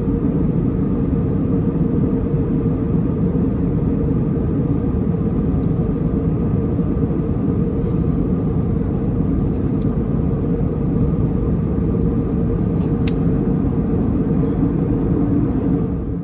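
Airbus A321neo cabin noise in cruise: a loud, steady drone of engines and airflow, with a few faint clicks.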